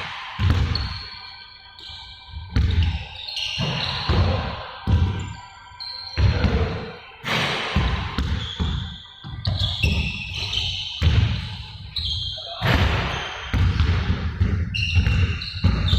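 Balls bouncing on a hard indoor court floor: irregular thuds, several a second at times, echoing in a large hall, with short high squeaks in between.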